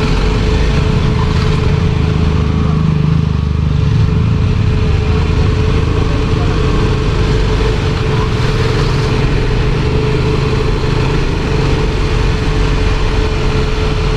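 Kawasaki Ninja motorcycle running steadily on the move, a low rumble of engine, wind and road noise with a steady hum running through it.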